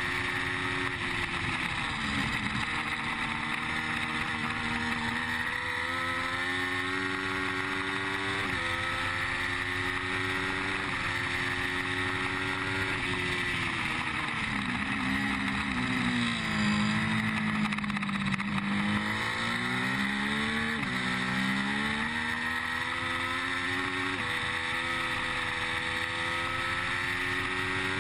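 Triumph Street Triple's 675 cc three-cylinder engine running hard, heard from the rider's seat. Its pitch climbs and steps with each gear change through the first half, falls away about halfway through as the bike slows, then climbs again with more gear changes near the end, over a steady rush of air noise.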